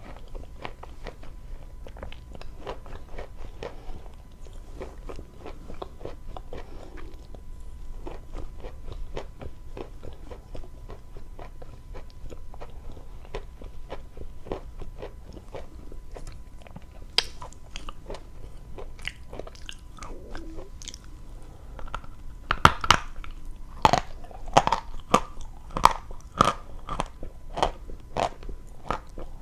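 Close-miked chewing and crunching of dry chalk: a steady run of small crisp crunches. Louder bites and crunches come in the last several seconds.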